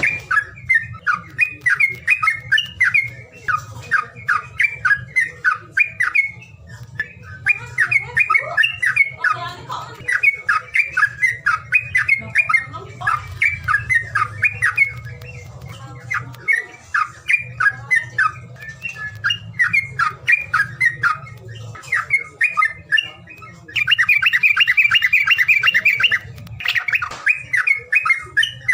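Songbird calling in rapid, harsh chattering bursts of notes, with a denser buzzing trill held for about two seconds near the end. It is a bird call recording of the kind played to provoke caged birds that won't sing into calling.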